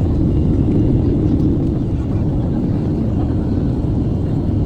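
Steady low rumble of an airliner's jet engines and airflow, heard from inside the passenger cabin.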